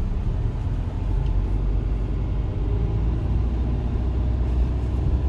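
Manual car's engine and road noise heard from inside the cabin: a steady low rumble while the car drives slowly in first gear.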